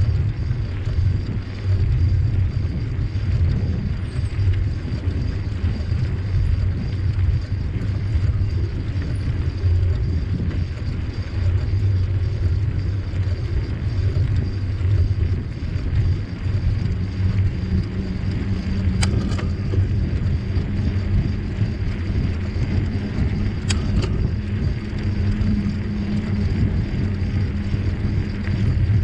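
Steady low rumble of wind and rolling noise on a moving bike-mounted camera, with a low steady hum joining past the middle and two sharp clicks in the second half.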